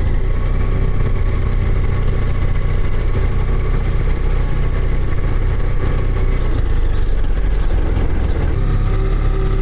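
Motorcycle engine running steadily at low riding speed, with a low wind rumble over it; the engine note shifts slightly about nine seconds in.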